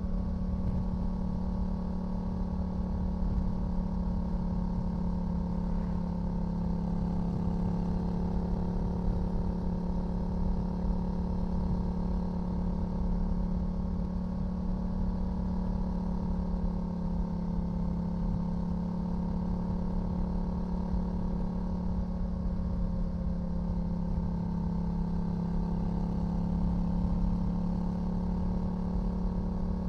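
2018 Yamaha XSR700's 689 cc parallel-twin engine running through a LeoVince LV One EVO full exhaust system, holding a steady pitch with a deep rumble underneath.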